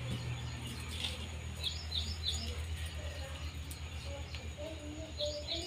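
Small birds chirping, two groups of three quick falling notes, over a steady low hum.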